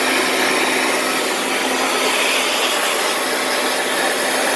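Electric blower running steadily with a constant rush of air and a faint motor hum, drying off a freshly rinsed engine bay.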